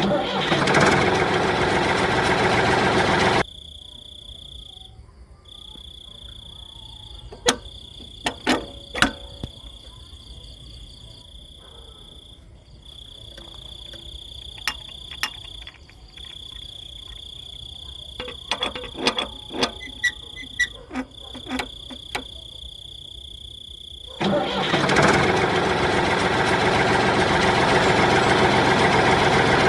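Small engine running loudly, then cut off sharply a few seconds in. A quieter stretch follows with a steady high insect-like trill and scattered sharp metallic knocks and clicks. The engine is running again from near the end.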